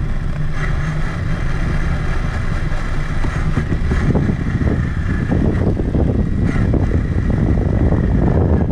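Traxxas Summit RC truck driving, heard from a camera mounted on it: the steady whine of its electric motor and geared drivetrain over a low rumble. From about halfway through, a dense crackle from the tyres on rough ground grows louder.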